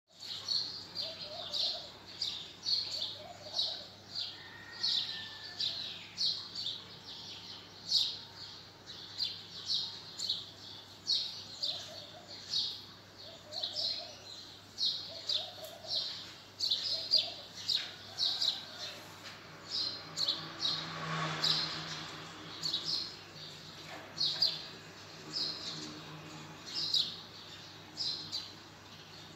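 A bird chirping over and over, short high-pitched chirps about twice a second, with a few fainter lower calls in between.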